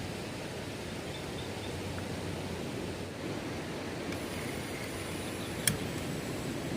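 Outdoor night ambience: a steady low rush of noise, with one sharp click a little before the end.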